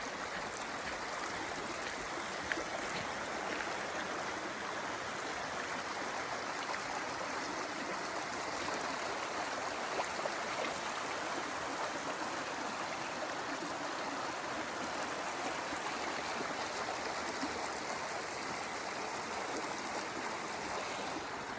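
Creek water flowing steadily, an even, unbroken rush of water.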